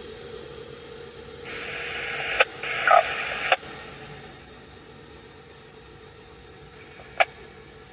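Scanner radio hissing with static. About a second and a half in comes a louder two-second burst of static with sharp squelch clicks, like a transmission keying up and dropping. Another single squelch click comes near the end.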